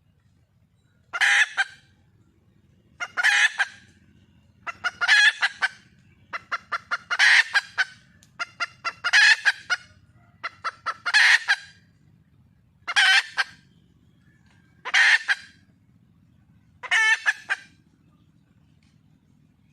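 Red junglefowl hen calling for a mate: short, loud, repeated calls about every two seconds, some led in by quick runs of short clucking notes.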